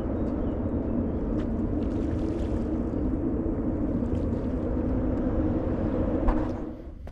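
Motorcycle engine running steadily, then stopping near the end, with a click just before it goes quiet.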